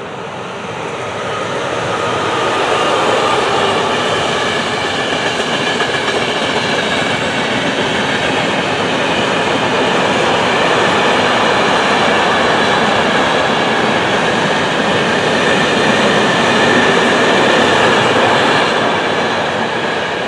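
A long train hauled by an E405 electric locomotive passing on the line: sleeper coaches, then flat wagons with containers and army vehicles, make a steady rumble and clatter of wheels on rail. It builds over the first couple of seconds and eases near the end as the last wagons go by.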